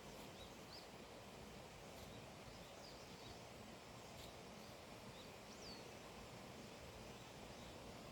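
Faint outdoor ambience: a steady soft hiss with a few short, high bird chirps scattered through it.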